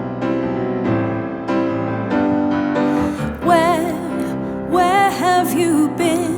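Piano playing slow, repeated chords of a ballad. About three and a half seconds in, a woman's voice comes in over it, singing long held notes with vibrato.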